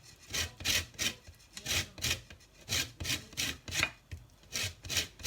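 Lemon peel being grated for zest on a hand grater: steady rasping strokes, about three a second.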